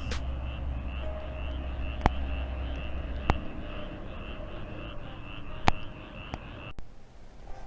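Outdoor ambience of rhythmic high chirping, about four pulses a second, with a few sharp pops from a wood campfire. The chirping cuts off suddenly near the end.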